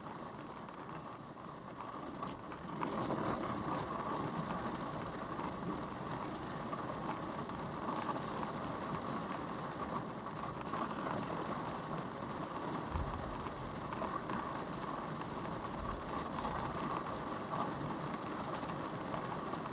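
Tornado winds with rain, a steady rushing noise that grows louder about three seconds in and then holds.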